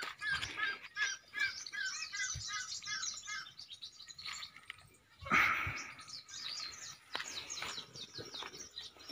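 Small birds chirping. For the first three seconds a call repeats about three times a second. A short, loud rush of noise comes about five seconds in, followed by quicker, higher chirps.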